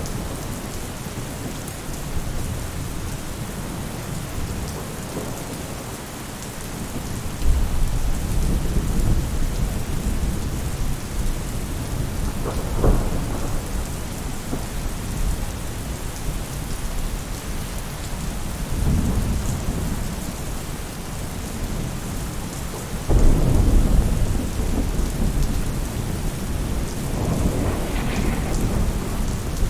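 Steady rain falling on a roof, with low rumbles that swell up suddenly about a quarter of the way in and again about three quarters through.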